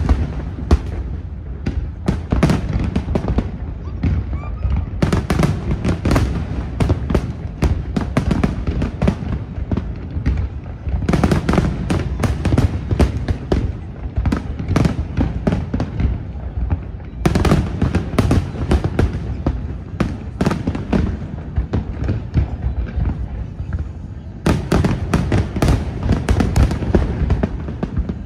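Aerial fireworks going off in quick succession: a continuous run of booms and rumble, broken by four dense flurries of rapid crackling reports.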